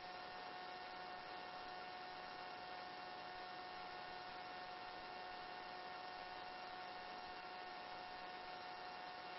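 Faint steady electrical hum with several unchanging whining tones, the background of a helicopter headset intercom feed while no one is transmitting.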